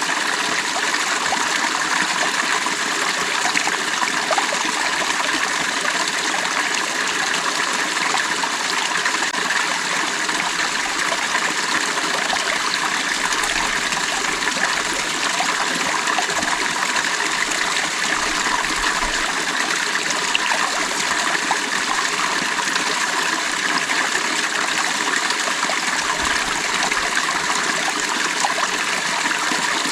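Stream water flowing and trickling over rocks, a steady, unbroken rush.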